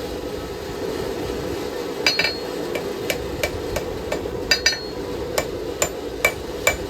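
Hand hammer striking hot knife steel on an anvil over a steady low rumble. The first couple of seconds hold only the rumble; then come a few ringing blows, followed by a regular run of strikes, about two or three a second. The strikes are on the blade's edge, which draws the steel longer and makes the blade curve up.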